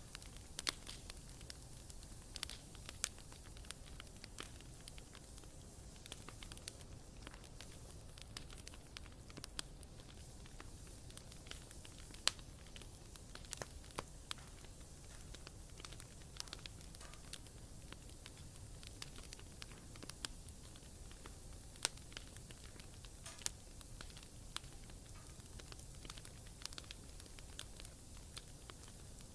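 Wood fire crackling: irregular sharp pops and snaps over a low, steady rumble of burning, with one louder pop about twelve seconds in.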